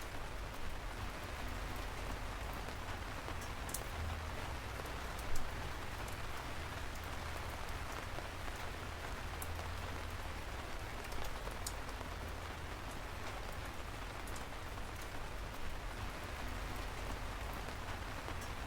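Steady rain falling, an even hiss with scattered sharp drips of individual drops striking a surface, and a brief louder drop about five seconds in.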